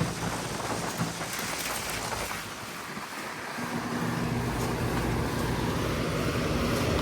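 Outdoor condensing unit of a 2004 Lennox Elite series 2.5-ton central air conditioner running: the condenser fan rushes air over a steady low hum from the fan motor and Copeland scroll compressor. It grows louder about three and a half seconds in.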